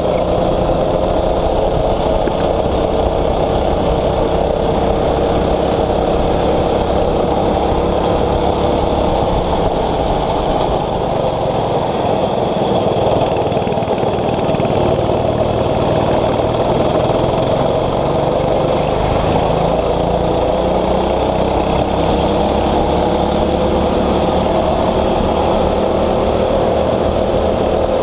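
6.5 hp single-cylinder four-stroke kart engine running hard under load. Its pitch sags slowly over the first several seconds, then climbs steadily through the last ten seconds as the kart picks up speed.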